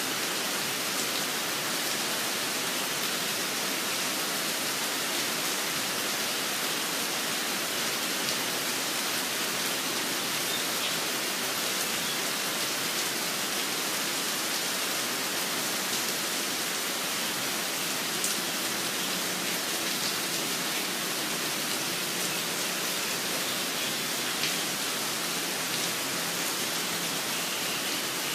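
Steady rain falling, an even hiss with scattered taps of individual drops.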